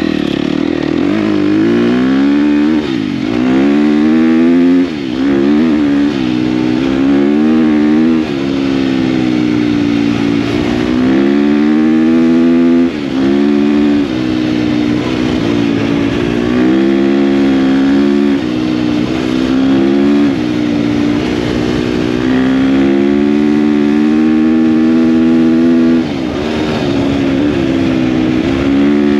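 KTM dirt bike engine running under throttle while riding, its pitch rising and falling continually, with brief dips in loudness every several seconds.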